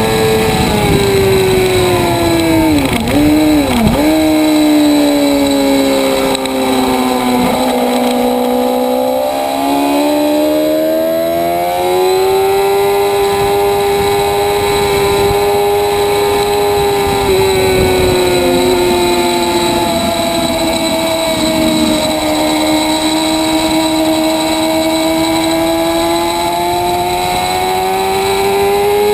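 Motorcycle engine running hard on a racetrack. Its note drops sharply in two quick dips about three seconds in, as if downshifting under braking. It stays low for several seconds, climbs again about ten seconds in, then holds fairly steady, sagging slowly and rising again near the end.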